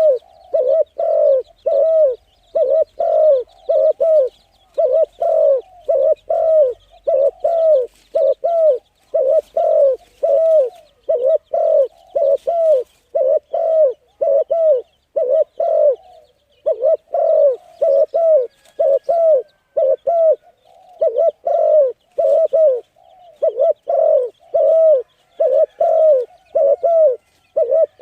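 A bird calling over and over with short, low, arched hooting notes, about two a second, with a few brief pauses. Fainter, higher chirps from other small birds sound behind it.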